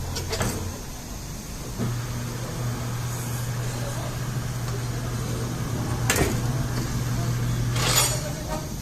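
A machine's motor running with a steady low hum, which starts about two seconds in and stops near the end; a sharp knock comes about six seconds in and a short hiss near the end.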